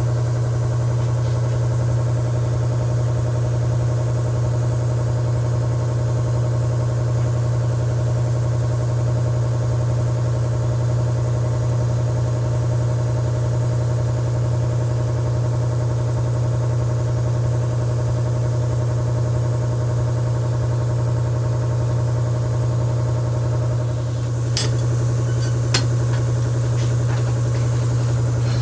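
A machine motor running with a steady, loud drone, with two sharp clicks near the end.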